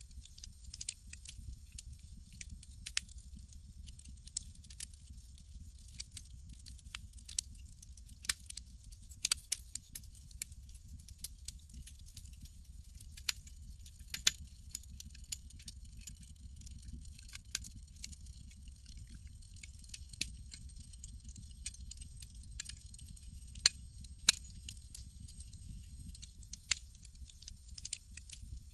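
Campfire crackling: irregular sharp pops and snaps, a few louder than the rest, over a steady hiss, with a low steady rumble underneath.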